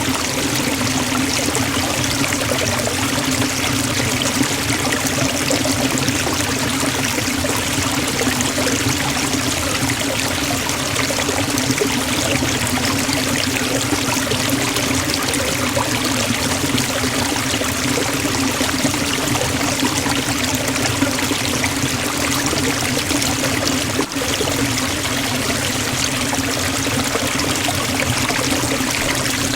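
Forest waterfall: water falling and splashing in a steady, dense rush.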